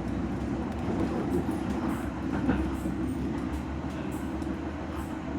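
London Tramlink tram running along the track, heard from inside the passenger car: a steady low rumble with a few faint clicks.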